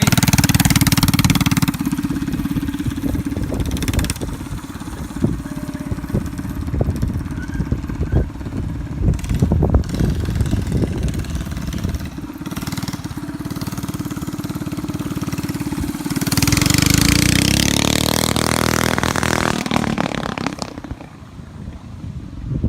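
Small mini bike engine running steadily. About three-quarters of the way through it gets louder, then drops in pitch and fades.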